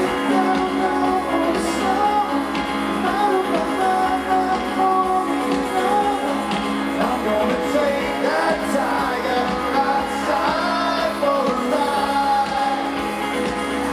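Live rock band playing, with guitars and sung vocals.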